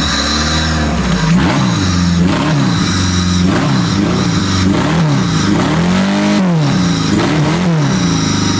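Freshly rebuilt Dodge Stratus 2.4-litre four-cylinder engine running and being revved: several quick rises and falls in engine speed, with one longer rev about six seconds in.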